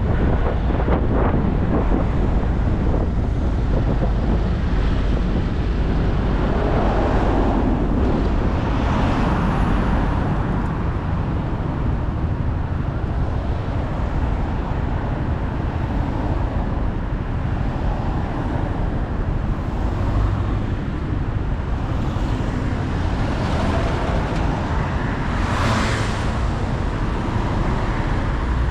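Onboard sound of a motorcycle riding through road traffic: wind rushing over the microphone, the bike running, and other vehicles passing, one louder pass about 26 seconds in.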